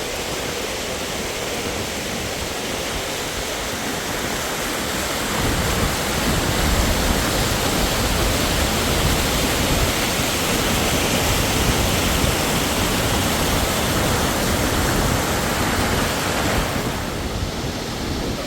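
Waterfall's rushing water, a steady roar that grows louder about five seconds in and eases back near the end.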